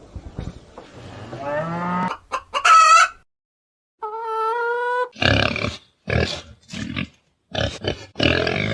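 Chickens calling: a few loud pitched calls, a held steady note about halfway through, then a run of about six harsh clucks in the second half.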